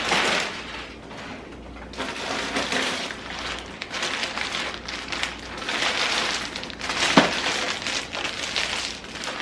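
Plastic snack bags crinkling as they are handled, in several bursts of crackling, with a sharp tap about seven seconds in.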